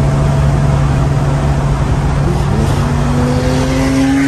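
Engine drone and road noise inside a BMW E36's cabin at highway speed. About two seconds in, a second engine note starts and rises slowly as a white BMW 135i runs alongside.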